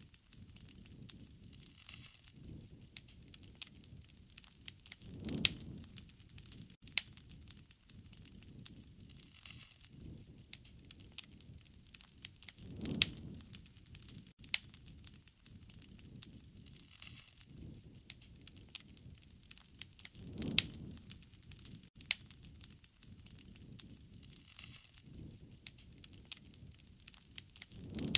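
Wood fire crackling and popping with many sharp snaps. A low rush of flame swells up roughly every seven to eight seconds.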